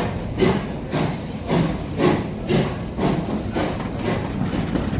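Steam locomotive working a train, its exhaust chuffing in an even beat of about two a second.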